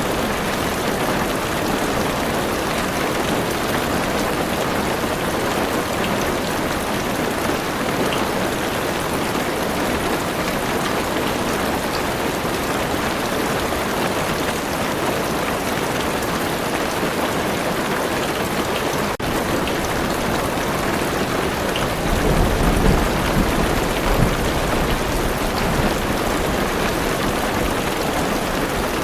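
Heavy rain falling steadily on a car roof and windows, an even hiss and patter. About three quarters of the way through a low roll of thunder rumbles for a few seconds.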